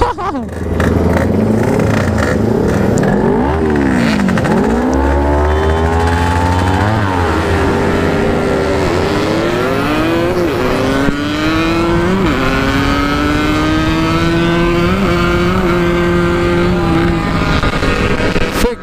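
Motorcycle engines running at high revs. Their pitches rise and fall and cross each other for several seconds. Then one engine holds a high, slowly rising pitch for several seconds before the sound breaks off near the end.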